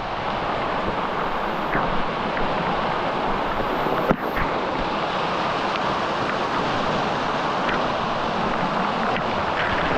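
Steady rush of fast-flowing canyon water, with one short knock about four seconds in.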